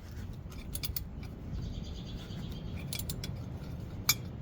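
Wrench and socket clinking on a brake bolt as it is worked loose: a few sharp metallic clicks and taps.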